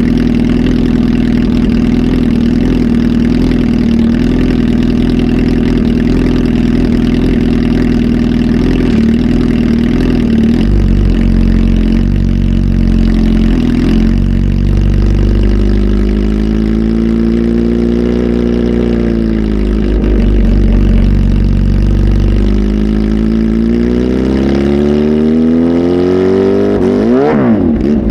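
Kawasaki Z H2 SE's supercharged inline-four, flash-tuned and on a full exhaust, idling steadily, then revved. The engine speed rises and falls slowly, then climbs in a long rev near the end and drops off sharply.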